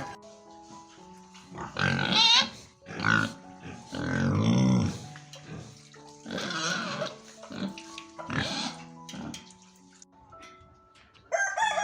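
Pig vocalising in about five separate bursts, over light background music.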